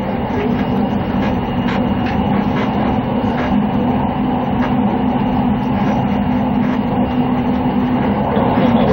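A train running at speed, heard inside the passenger car: a steady rumble with a constant low hum and irregular clacks of the wheels over rail joints.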